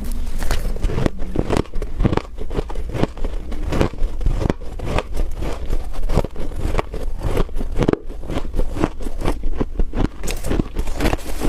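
Freezer frost being bitten and chewed, close to the microphone: a dense, irregular run of loud, sharp crunches and crackles.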